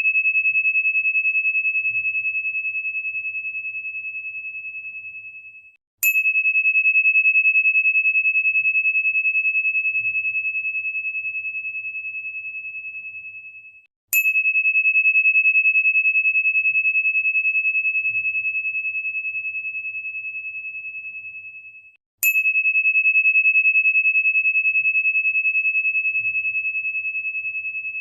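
Crystal singing bowl ringing one high, pure tone. It is struck three times about eight seconds apart, each strike starting with a light click and then fading away slowly.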